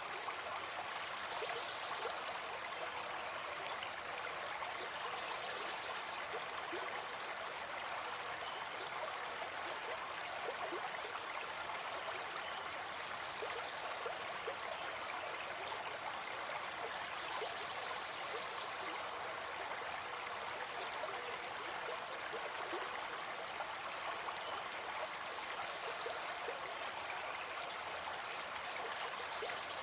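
Gentle forest stream flowing, a steady, even rush of running water.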